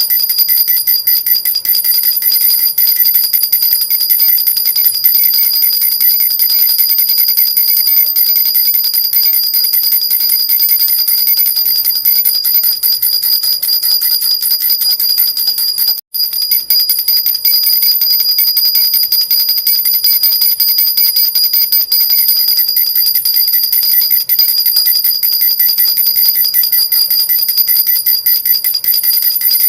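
A metal baby rattle (jhunjhuna) with small bells, shaken continuously in a fast, even jingle with a bright high ring. The sound cuts out for a split second about sixteen seconds in.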